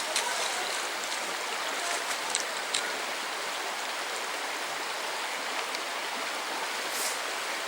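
Steady rushing of a mountain stream near a small waterfall, an even wash of running water with a few faint ticks.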